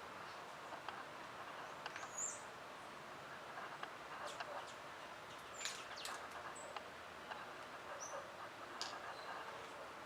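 Scattered short, high bird chirps every second or two, with a few sharp clicks, over a faint steady background hiss.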